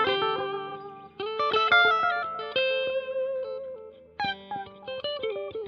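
Electric guitar played through the Donner Yellow Fall II pedal's echo delay mode: a run of picked notes and short phrases with delay repeats trailing after them. The notes die away near the end.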